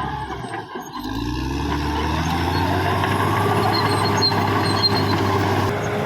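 Caterpillar D6R XL bulldozer's diesel engine running. It drops briefly about half a second in, then its pitch climbs over the next couple of seconds and holds steady.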